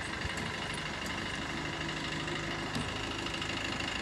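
A car engine idling steadily, with a steady high-pitched drone over it.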